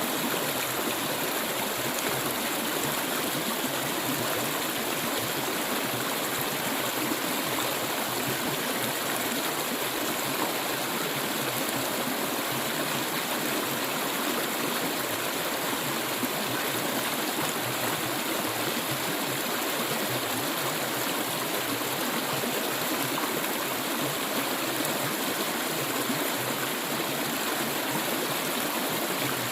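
Clear stream water flowing steadily, an even rushing sound with no breaks.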